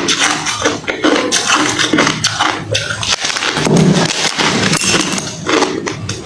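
Hard refrozen crushed ice being crunched and chewed close to the microphone, a rapid, irregular run of sharp crunches.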